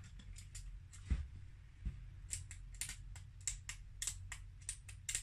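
Small plastic clicks from the key switches and keycaps of a DIY calculator kit being pressed into place on its circuit board, coming quickly, about a dozen in the last three seconds. There is a dull knock about a second in.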